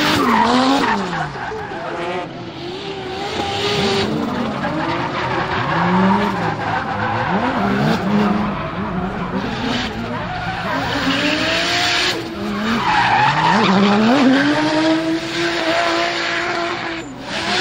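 Turbocharged Toyota 2JZ-GTE inline-six in a BMW M3 E46, revving up and down repeatedly as the car drifts, with tyres squealing and skidding. About two thirds of the way through the revs climb and hold high for several seconds amid heavy tyre squeal.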